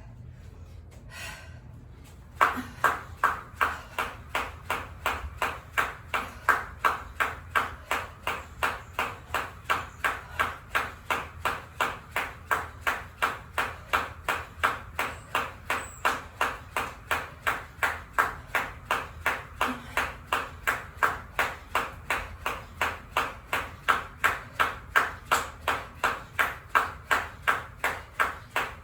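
Jump rope slapping the floor on each turn, with the jumper's feet landing in time: a steady rhythm of sharp slaps, about two and a half a second, starting a couple of seconds in.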